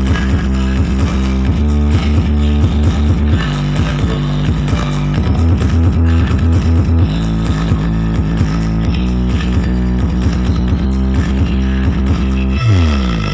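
Loud music with heavy, booming bass and guitar, played through a large sound system during a sound check.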